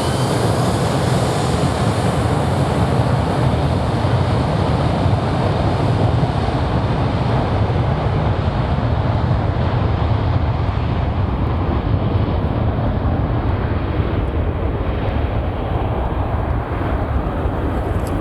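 Jet engine rumble of a departing Skymark Boeing 737-800 climbing away after takeoff: a steady deep roar whose high hiss fades gradually as the aircraft recedes.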